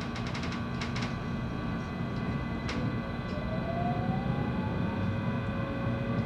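Running sound inside a JR West 223 series electric train: a steady rumble with the inverter-motor whine, one tone rising slowly in pitch from about halfway through as the train gains speed. A quick run of rail-joint clicks comes in the first second, with single clicks later.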